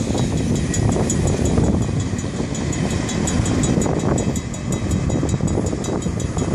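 Rumble of a long Florida East Coast Railway freight train rolling away along the track just after its last car has passed, with a fast high ticking for a few seconds in the middle.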